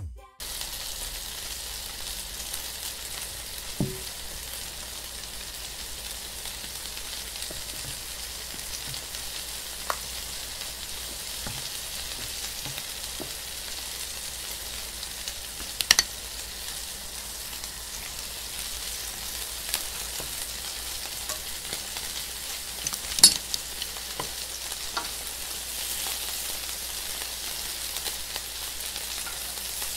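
Egg-battered beef patties frying in shallow oil in a nonstick pan, a steady sizzle with a few sharp pops along the way.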